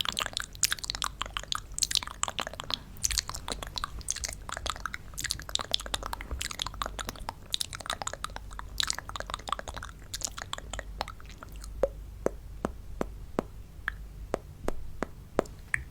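Close-miked crunching and clicking of candy and piñata pieces: dense crisp crackles that thin out to sparse single clicks after about ten seconds.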